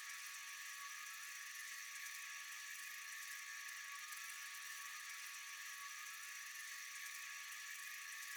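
Steady night chorus of insects: a dense, high-pitched, even trilling with a few faint steady tones beneath it.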